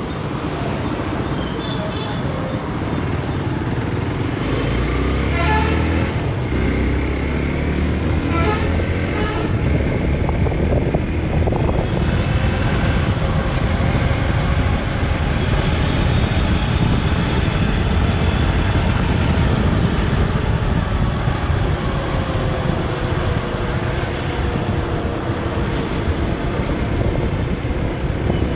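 Motorcycle engine running under way through city traffic, with steady road and wind noise. A couple of short horn toots sound about five and eight seconds in.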